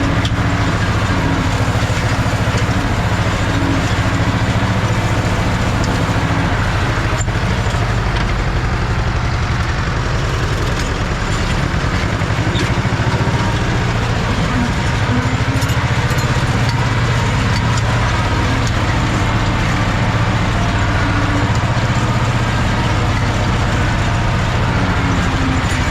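Ursus C-330 tractor's two-cylinder diesel engine running steadily.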